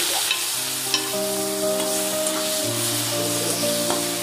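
Ground onion, ginger, garlic and green chilli paste sizzling in hot oil in an aluminium kadai as it goes in and is stirred with a metal spatula. Background music of slow held notes plays underneath.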